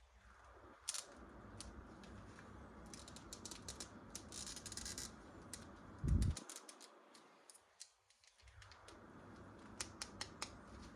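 Hands handling plastic toys and packaging: scattered sharp clicks and taps, a brief scratchy rustle about four seconds in, and a dull thump about six seconds in.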